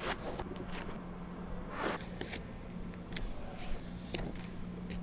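Plastic shrink wrap being pulled and torn off a boat, rustling and crackling in irregular swishes, with a steady low hum underneath.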